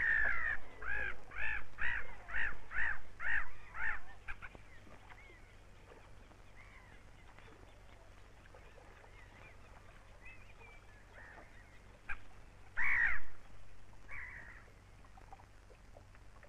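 A bird calling: a quick run of about nine rising-and-falling calls, about two a second, which stops about four seconds in. Two more single calls come much later, near the end.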